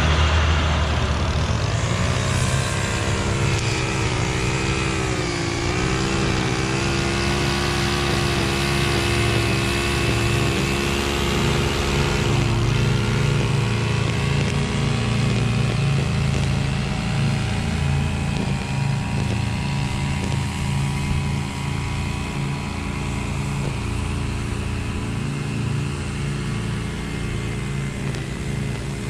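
Husqvarna V554 stand-on zero-turn mower's engine running steadily while mowing, with its pitch sagging briefly and recovering about five seconds in.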